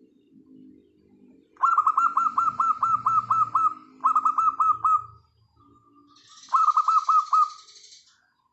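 Birdsong from a zebra dove recording. Soft, low repeated cooing lies under three loud runs of rapid downward-slurred notes, about nine a second. The runs come about a second and a half in, near the middle, and near the end.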